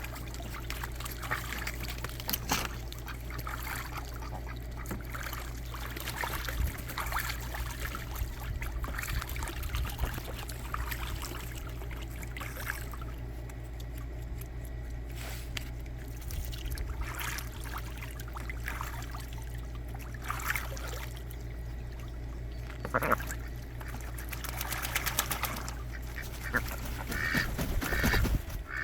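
Ducks and geese splashing and dabbling in pool water, with scattered quacks that come more often near the end, over a steady low hum.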